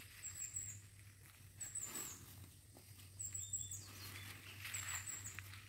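A bird repeating a short, high chirping phrase about every second and a half, over faint rustling of the nylon tent fabric as it is pulled up.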